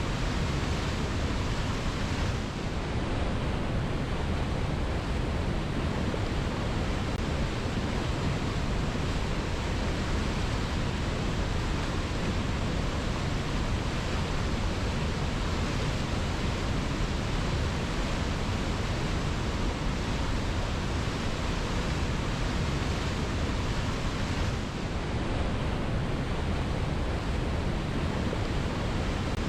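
Waterfall pouring: a steady, unbroken rush of falling water, heaviest in the low end.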